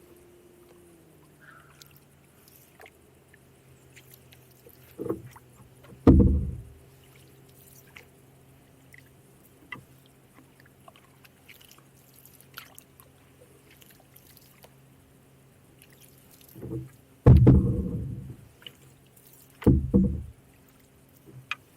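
Canoe paddle strokes in the water: a few low swishing pulls and splashes at uneven intervals, with the loudest about six seconds in and again near the end.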